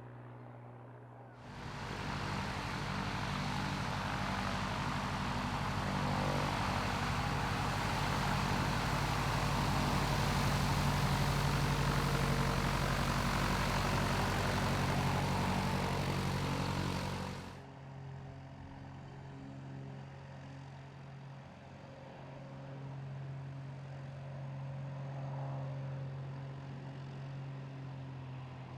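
Light propeller aircraft running loud with engine and propeller noise, which starts suddenly a second or so in and cuts off abruptly past the middle. A quieter, steady engine hum follows.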